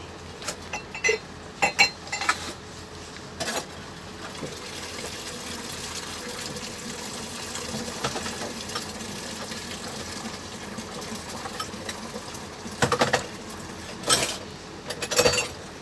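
Close-up eating noises of someone biting and chewing a soft banana: scattered wet mouth clicks and smacks, sparse through a steadier middle stretch and coming thicker again near the end.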